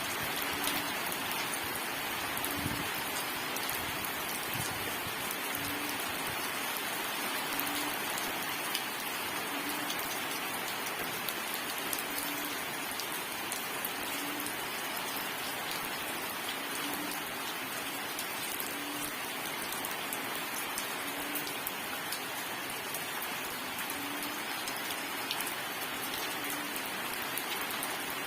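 Steady rain falling, a dense even hiss with many individual drops ticking on a surface. A faint short low note recurs about every two seconds underneath.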